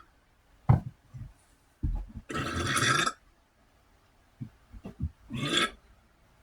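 A person burping loudly: a long burp about two seconds in and a shorter one near the end, with a few brief gulping sounds between.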